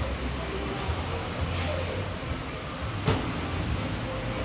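Road traffic noise: a steady low motor-vehicle engine rumble with a brief rushing swell, and a single sharp knock about three seconds in.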